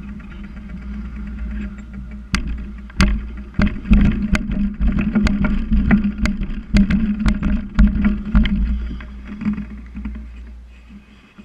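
Bicycle ride: a steady low rumble of wind and rolling noise on the microphone, with a run of sharp knocks and rattles from about two seconds in until past the middle, then easing off near the end.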